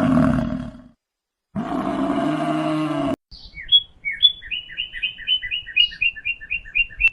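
A large animal gives a low, drawn-out call that ends about a second in, then calls again for about a second and a half. After that, a songbird sings a fast, even run of repeated two-note chirps.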